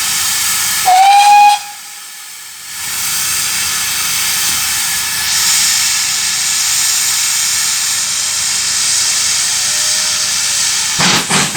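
Steam locomotive hissing steadily as it vents steam, with one short whistle blast about a second in that slides up in pitch and then holds, the loudest sound. The hiss stops for about a second after the whistle, then resumes, and a quick run of sharp bursts comes near the end.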